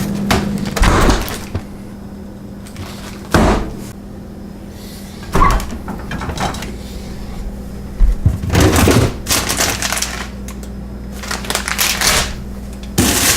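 Scattered knocks, clatters and crinkling of packages and containers being handled in a kitchen, a few sharp bumps several seconds apart.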